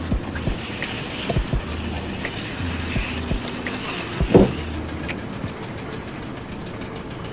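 Irregular knocks and clicks with an on-and-off low mechanical hum, and one louder thud about four and a half seconds in.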